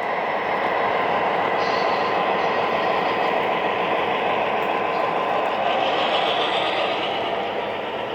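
Long O scale three-rail model train of about 45 cars running along the track: a steady rumble and clatter of wheels and motors on the rails.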